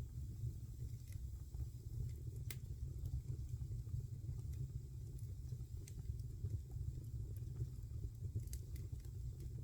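Wood fire burning in a fireplace: a steady low rumble of the flames with a handful of sharp crackles and pops scattered through.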